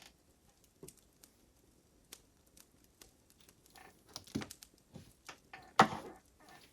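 Fire crackling: irregular sharp pops and snaps, the loudest snap about six seconds in.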